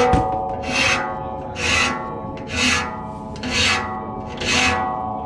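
A hand file sharpening the teeth of a 48-inch circular sawmill blade dulled by cutting ash, in even rasping strokes about once a second. The steel blade rings on steadily between strokes.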